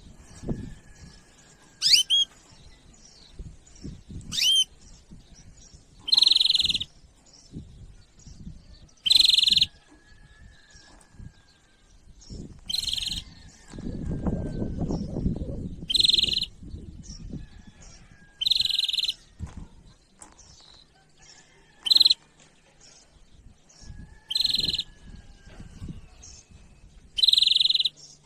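Small birds chirping: a short, harsh call repeated every two to three seconds, with fainter thin whistled notes between. A low rumble comes in around the middle.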